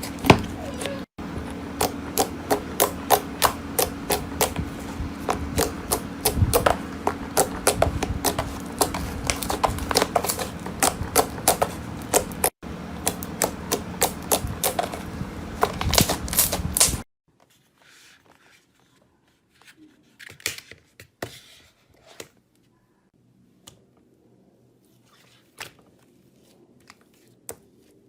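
Slime being squeezed and pressed by hand, giving rapid crisp clicks and pops over a steady background hum. About two-thirds of the way through the hum cuts off suddenly, and softer, sparser clicks follow.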